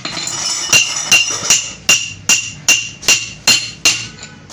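Hammer striking metal in a fast, steady rhythm: about ten ringing blows, two to three a second.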